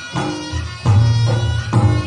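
Reog Ponorogo gamelan ensemble playing: a sustained, reedy slompret melody over kendang drum strokes and gong beats. Heavy low strokes come about once a second.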